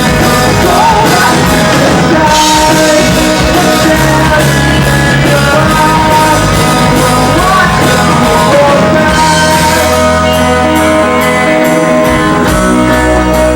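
Live rock band playing loudly: distorted guitars, bass and drum kit, with sung vocals.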